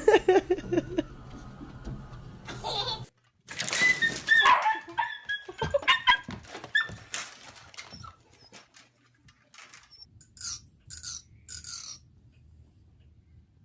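A dog vocalizing in short yelps and whines, across a few separate clips with abrupt cuts between them.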